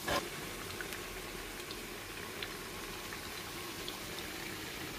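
Eggplant slices frying in a pan of hot olive oil: a steady soft sizzle with scattered small crackles, after a brief louder sizzle right at the start.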